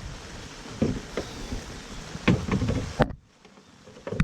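Metal clunks and knocks as the sheet-metal door of the Kohler generator's enclosure is fitted back on, over a steady hiss of rain. About three seconds in a final sharp clunk comes, and the rain hiss drops away abruptly.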